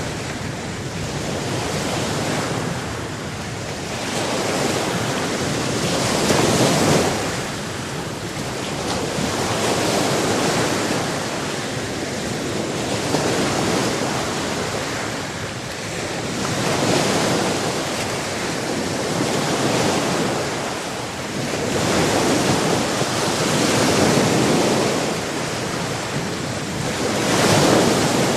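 Sea surf: waves washing in and drawing back in slow swells about every three to four seconds, with a steady rushing hiss in between.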